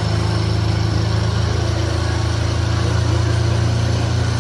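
A pulling tractor's engine running steadily at an even, low pitch, not revving.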